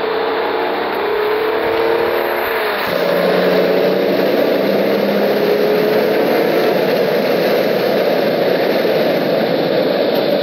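Hyundai Sonata's V6 engine heard from inside the cabin, accelerating hard with rising pitch. It shifts up just before three seconds in, then pulls on under heavy wind and tyre noise as road speed climbs.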